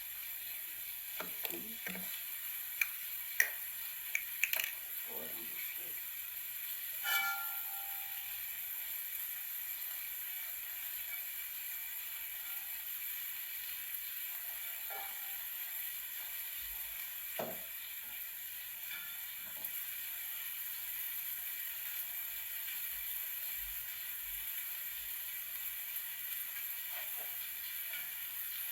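Kitchen work over a steady sizzling hiss of food cooking: utensils and dishes clicking and knocking several times in the first few seconds, a short ringing clink of crockery or metal about seven seconds in, then a few scattered knocks.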